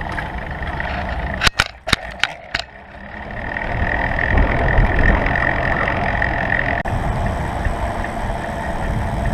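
Wind rushing over the microphone with road noise as a bicycle gets under way, growing louder from about three seconds in. Just before that, a quick run of four or five sharp clicks.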